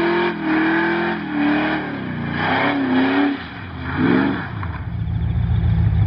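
Car engine held at high revs, then the revs fall and waver, one quick rev rises and falls about four seconds in, and it drops to a loud, pulsing idle near the end.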